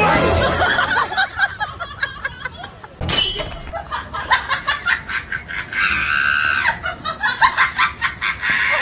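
People laughing and shrieking, with a sharp knock about three seconds in.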